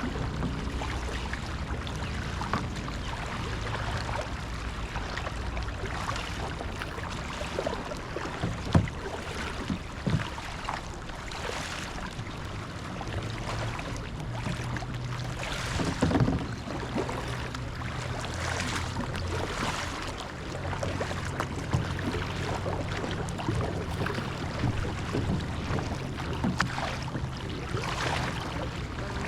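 Kayak paddles dipping and pulling through calm water, with repeated soft splashes at irregular intervals, over a low steady hum.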